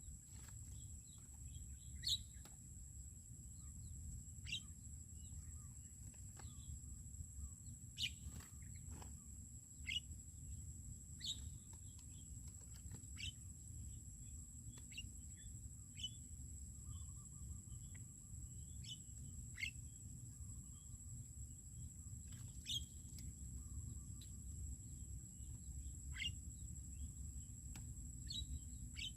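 Birds calling outdoors: short, sharp chirps every second or two, over a steady high-pitched whine and a low outdoor rumble.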